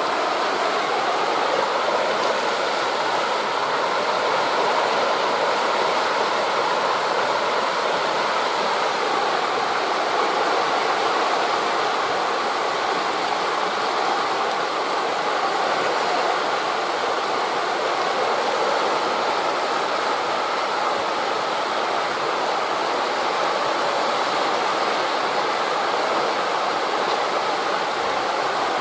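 Steady rushing ambience of wind through forest leaves blended with distant surf on a beach, even in level with no distinct breaking waves or gusts.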